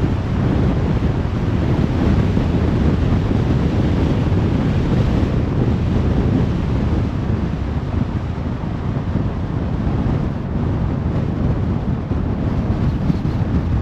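Car driving on a motorway: a steady, deep rush of tyre and wind noise.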